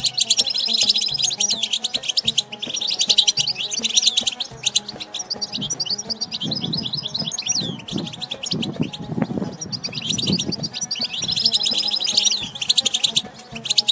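European goldfinch song: rapid twittering phrases in long runs with a short break a little past halfway. This is the wild 'batbata' chatter used to stimulate captive goldfinches. A lower, rougher sound rises beneath it in the middle.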